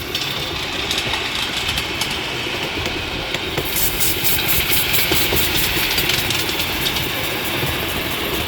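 A miniature railway train running along its track: a steady rumble and hiss, with a fast, even ticking from about four seconds in.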